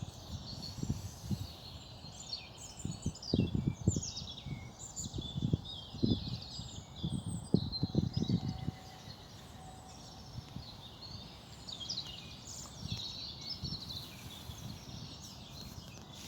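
Several songbirds singing and chirping at once in a dense, overlapping chorus. Irregular low thuds and rumbles come through in roughly the first half.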